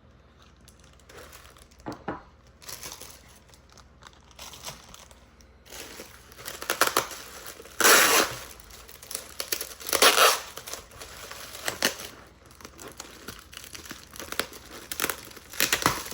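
Packaging wrapped around small carved stone figurines being crinkled and torn open by hand, in irregular bursts that grow louder about halfway through.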